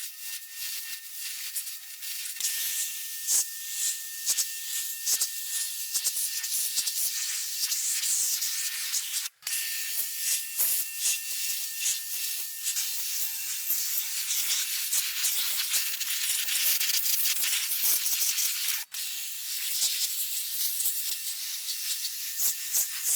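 Steady hissing, spraying noise with many quick small scrapes and clicks through it, broken twice by a sudden brief silence.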